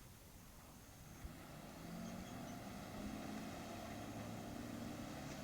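Motor of a small launch running at a steady pitch, coming up louder about two seconds in and then holding even.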